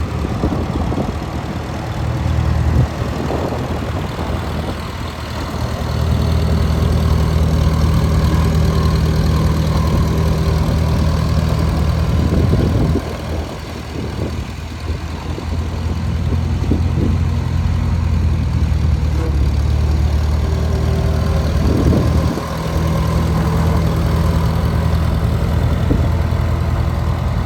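McCormick Super W6 tractor's four-cylinder engine running steadily, its note easing off for a couple of seconds about thirteen seconds in and briefly again near the twenty-two-second mark.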